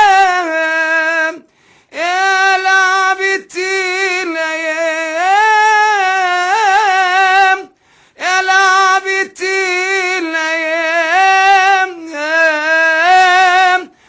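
A solo voice singing long, wordless held notes in Arabic style, with vibrato and melismatic turns, in phrases of a couple of seconds separated by short pauses. No other instrument can be heard.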